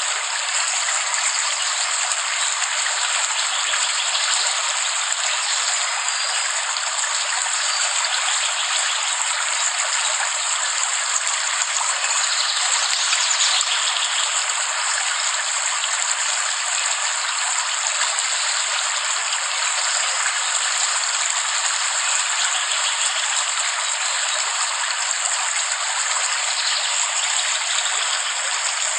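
Steady rain falling, an even hiss that holds level throughout with no breaks.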